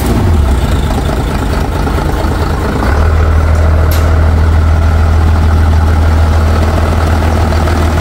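Mitsubishi Fuso Fighter's 6M60 inline-six diesel engine idling steadily, running again after its no-start, with many fault codes still stored in the ECU. Its low drone settles and grows a little louder about three seconds in.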